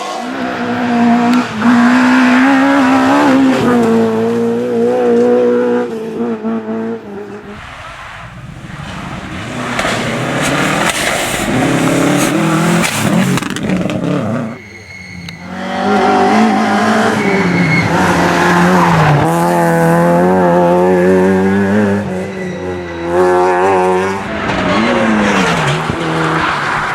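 Rally cars at full throttle on a stage, engines rising in pitch and dropping at each gear change, with tyre squeal. The sound breaks off briefly about halfway through and another car takes over.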